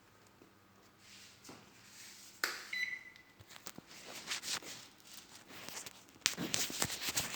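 A click and then one short electronic beep from a Sharp microwave oven's control panel, about three seconds in, on an oven that will not start. Light clicks and taps follow, with a louder clatter of handling near the end.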